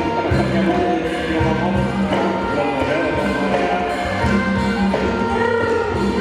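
Traditional Khmer-style (kantruem) ensemble music for dance: sustained melodic lines over a steady beat of low drum strokes.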